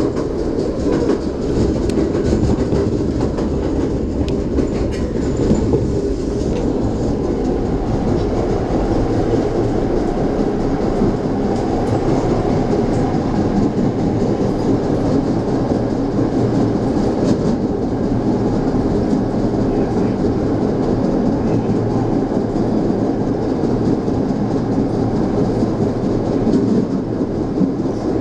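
Train running at speed, heard from inside the passenger car: a steady rumble of wheels on rail, with a few sharp clacks over the rail joints in the first several seconds.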